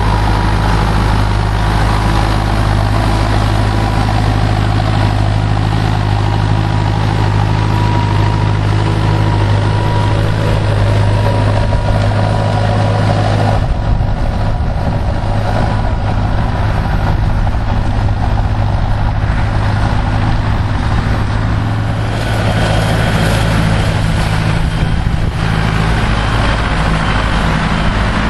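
Same Silver 110 tractor's diesel engine running steadily while it pulls a four-furrow plough. Its note changes about halfway through and again a few seconds later.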